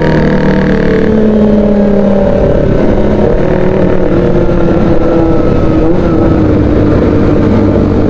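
Motorcycle engine running under way, its note sinking slowly and evenly as the revs ease off, over a steady low rumble.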